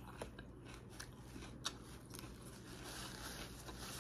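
Close-miked chewing of a mouthful of shrimp salad with raw vegetables, with a few crisp crunches, the loudest about a second and a half in. Near the end, a softer paper rustle as a napkin is unfolded.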